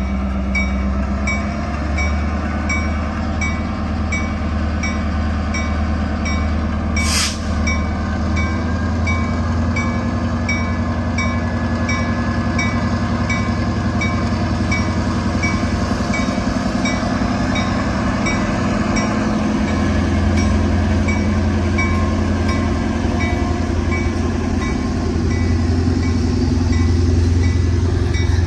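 EMD GP38-2 diesel locomotive, a non-turbocharged 16-cylinder two-stroke, rumbling slowly past with its freight cars rolling over a steel railway bridge, growing a little louder in the last third. A bell rings steadily about twice a second, and a single sharp clank sounds about seven seconds in.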